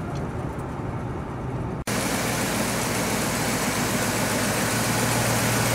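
The 1969 Ford Thunderbird's 429 big-block V8 idling steadily. About two seconds in, a cut brings it louder, with a steady hiss over the low hum.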